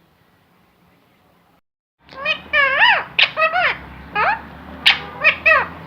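A talking parrot vocalising: a quick string of short, high-pitched syllables with pitch swooping up and down, starting about two seconds in after a faint hiss.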